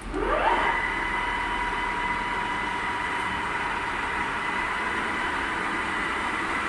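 Bulgarian-built C11 MSM engine lathe starting up: its whine rises in pitch over about half a second as the spindle drive comes up to speed, then runs on steadily with a high whine over a mechanical hum.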